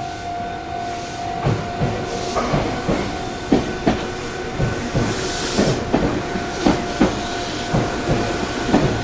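Meitetsu electric train running through the station, its wheels clacking over rail joints and points in irregular knocks, often in close pairs. There is a brief burst of air hiss about five seconds in, over a steady high tone.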